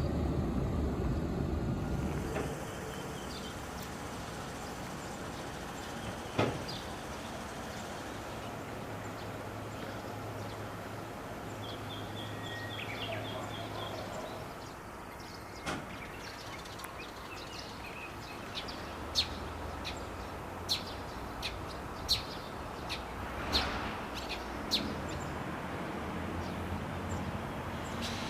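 Rail-yard ambience: a passing train's rumble fades out in the first two seconds, leaving a faint low hum. Birds chirp over the hum, and sharp clicks come now and then, most of them in the last third.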